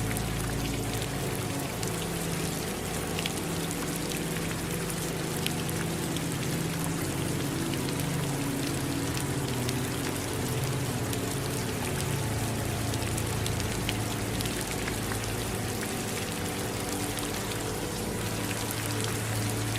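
Steady rain with many scattered drop ticks, over the steady low rush of running water.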